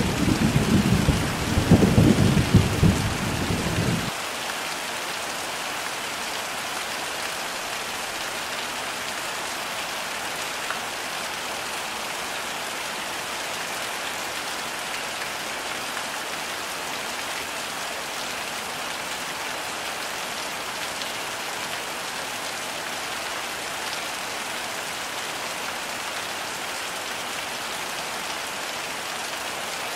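Heavy rain with steady hiss. A rumble of thunder sounds in the first four seconds and cuts off abruptly, leaving only the rain.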